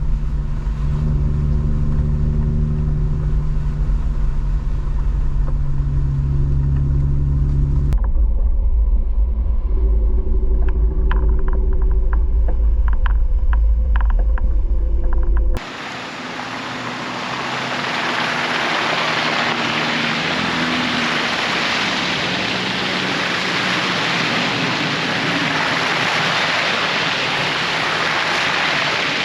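Jeep driving on rain-soaked forest roads, heard across several cut-together shots: a steady low engine and road rumble, then rumble with a run of sharp ticks, then a steady hiss through the second half.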